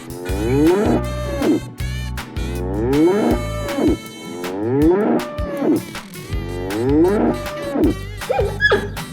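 Cow mooing four times, about two seconds apart, each call rising and then falling in pitch.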